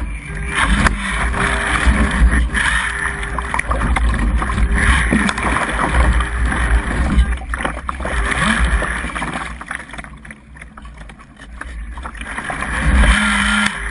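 Strong gusty wind blowing across the microphone: a heavy rumble with a rushing hiss, easing about two-thirds of the way through and surging again near the end.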